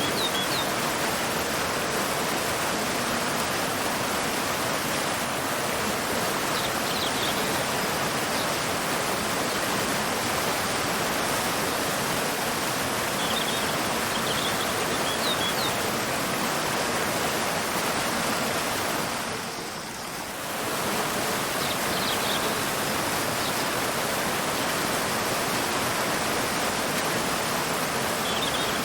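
Waterfall and river water rushing in a steady, even wash, briefly dipping about twenty seconds in. Faint short bird chirps come through every several seconds.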